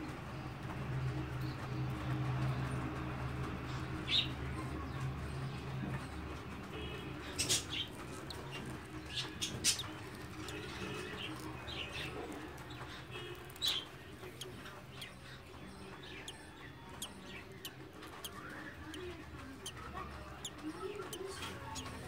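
Birds chirping, with scattered short, sharp calls, over a low steady hum that fades out about six seconds in.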